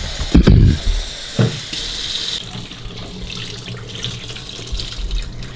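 Kitchen tap running into the sink while raw chicken is rinsed under it; the water's sound thins about two seconds in, with a few low knocks early on.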